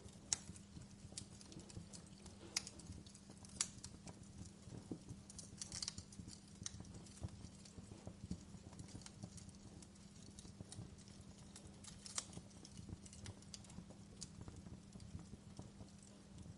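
Wood fire burning in a fireplace, crackling with irregular sharp pops and snaps over a low steady hum.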